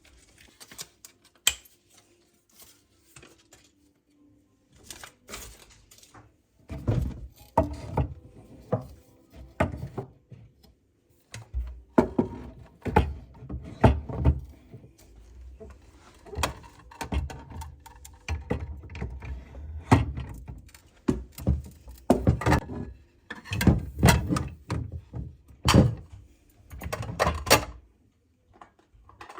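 Irregular knocks, taps and clatter of household objects being handled and set down, with low thumps, busiest after the first several seconds.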